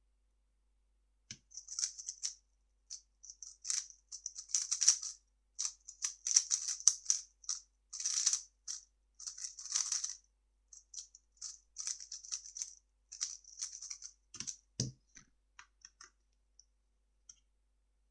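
A 3x3 speed cube being turned fast by hand: dense runs of light plastic clicking and rattling for about fifteen seconds, with short pauses between runs, then a soft thump near the end as the turning stops.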